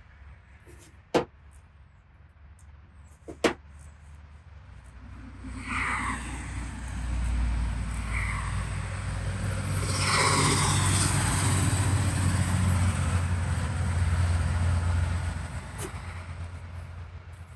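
Two sharp clicks, then a passing motor vehicle whose rumble and road noise swell for about ten seconds and fade away.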